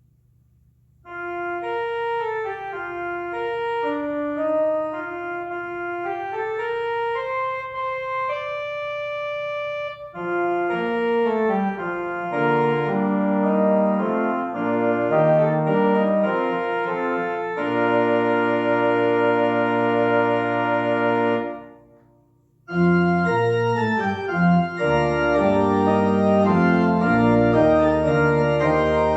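Organ playing the postlude. It enters about a second in with a single melodic line, thickens into full chords, holds a long chord that breaks off about 21 seconds in, and after a short pause comes back with full chords.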